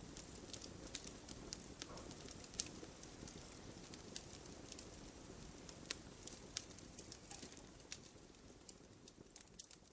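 Wood fire crackling, with irregular sharp pops, over a steady hiss of rain; the sound fades out toward the end.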